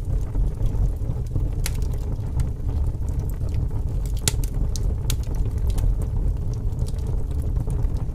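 Wood fire crackling, with scattered sharp pops, over a steady low rumble of strong wind.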